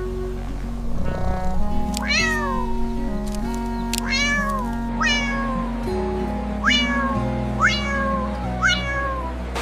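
A cat meowing six times, each call sliding down in pitch, over background music with held notes.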